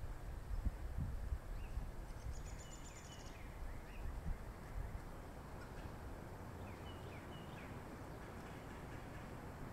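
Faint, thin, high bird chirps: a few short falling notes come now and then, and a brief rapid high trill comes about two seconds in. They sound over a steady low background rumble, with a few soft low thumps in the first second or so.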